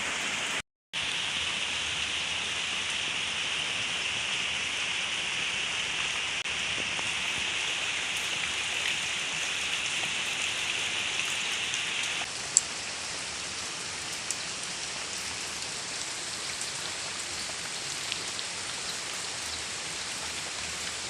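Rain falling steadily, an even hiss of drops with no pitched sound in it. The sound drops out briefly near the start. About halfway through it becomes slightly softer and less bright, with one sharp tick just after.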